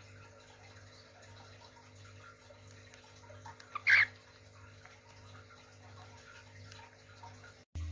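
A caged pet bird gives one loud, short call about four seconds in, just after a couple of faint chirps, over a steady low hum. The sound cuts off abruptly near the end.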